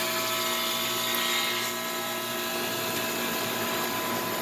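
A 2011 2.5-ton Goodman central air conditioner's outdoor condensing unit running steadily just after start-up. Its compressor gives a steady hum with a whine made of several fixed tones, over an even hiss from the fan and rain.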